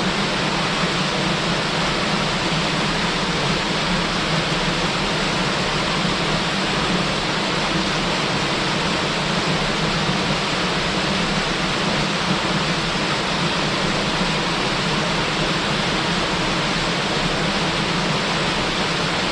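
Small waterfall: a steady, unbroken rush of falling water with a low rumble underneath.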